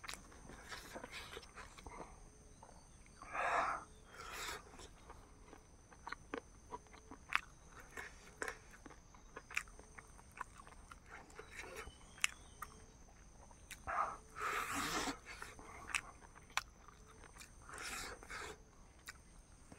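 Close-up eating sounds of a chicken and rice meal: wet chewing and mouth clicks, with a few louder noisy bursts, the longest lasting about a second a little past the middle.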